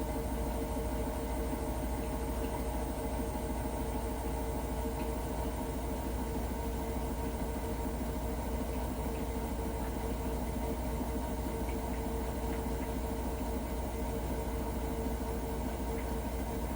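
Hotpoint NSWR washing machine running with a steady droning hum over a low rumble. This is the weird noise whose cause the owner cannot explain.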